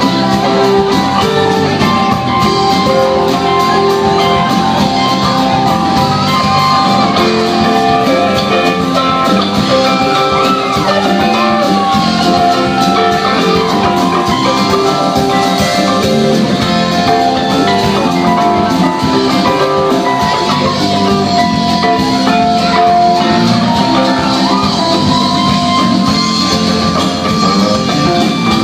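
Live band playing music continuously, with guitar and drums.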